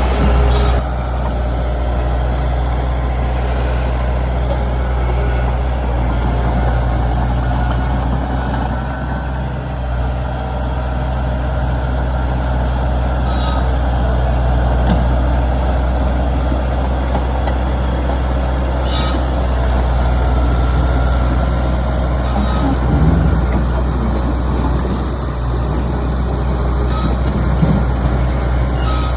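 Heavy diesel engine of a Komatsu D31PX bulldozer running steadily at a low, even pitch, with a few sharp clanks.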